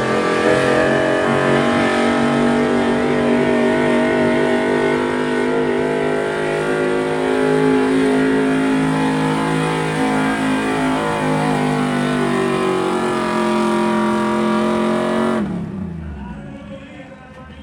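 Stock gasoline pickup truck's engine held at full throttle as it pulls the weight sled, the revs sagging under the load before the sound cuts off suddenly about fifteen seconds in.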